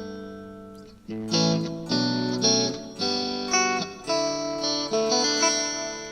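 Electric guitar (a Fender Stratocaster) played through a single-valve Compactron amplifier at about half volume, clean with a little grit: a chord rings out and fades, then a run of picked chords and notes follows.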